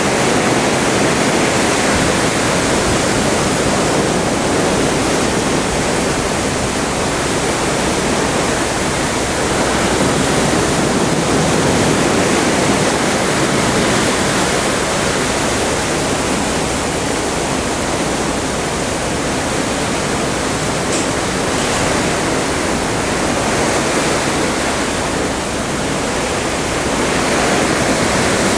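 Open Atlantic sea water rushing past a moving ship, a dense steady wash that swells and eases gently every several seconds.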